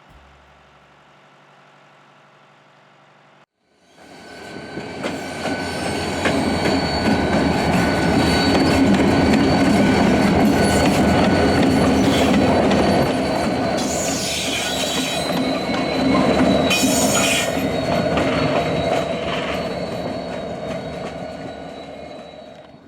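Freight cars of a New York, Susquehanna & Western switching move rolling by, starting about four seconds in. The wheels squeal with a thin steady whine, with louder squeals at about fourteen and seventeen seconds.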